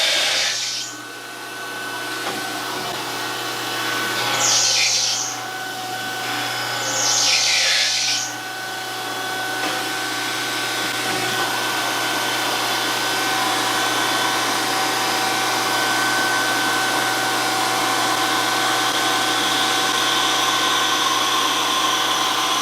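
DoAll surface grinder running with a steady whine from its spindle and motor. Three times in the first eight seconds the grinding wheel passes across the steel of a Kurt vise, each pass a hissing grind of about a second.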